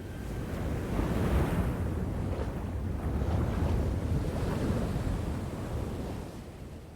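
Ocean surf washing in, several waves surging one after another; it swells up about a second in and fades out near the end.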